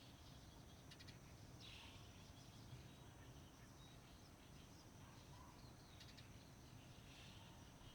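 Near silence: faint outdoor ambience with a few soft bird chirps and a steady high insect-like drone over low background rumble.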